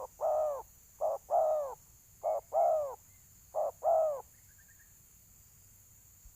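Spotted dove cooing in its fighting-call contest: four two-part coos, each a short note followed by a longer arched note, about one a second, stopping about four seconds in.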